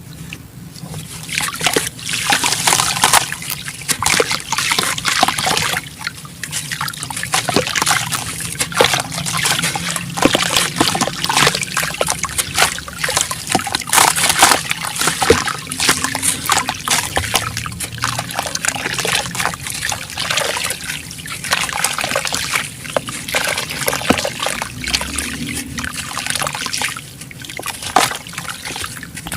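Chunks of black sand-cement crumbling apart in water: a dense crackling and trickling with splashes, swelling and dipping in uneven waves.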